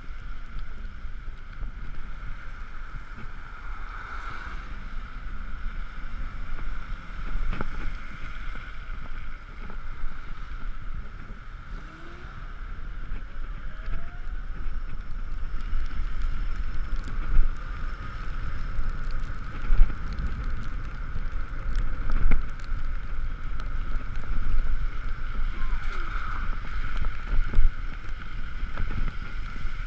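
Ekoway ML5000 electric motorcycle riding on a wet road in the rain: steady wind and road rumble with a constant high whine and a few light knocks.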